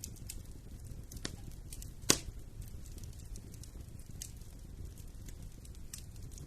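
Wood fire in a fireplace crackling, with scattered small pops over a low steady rumble of the flames, and one loud sharp pop about two seconds in.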